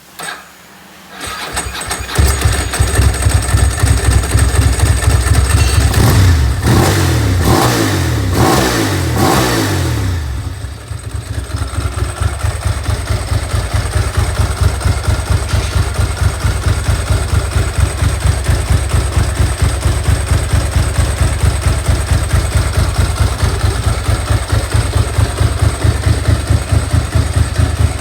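Ducati SS900's air-cooled L-twin engine cranking on the starter and catching about two seconds in. It is blipped several times between about six and ten seconds in, revving up and dropping back, then settles to a steady, pulsing idle.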